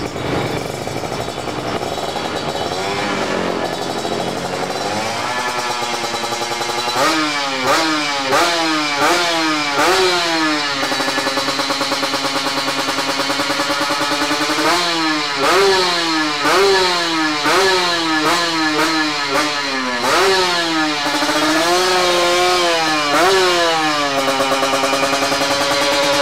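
Kawasaki Ninja RR 150's two-stroke single-cylinder engine through an Abenk Muffler aftermarket exhaust, revved in quick blips that rise and fall back to idle, several in a row twice over, with steady idling between and a few slower revs near the end.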